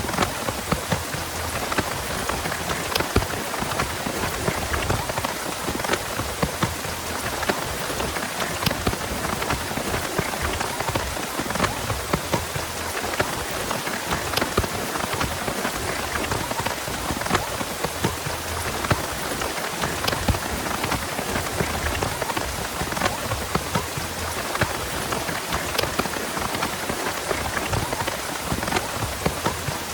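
Heavy rain falling steadily, with many individual drops striking sharply close by.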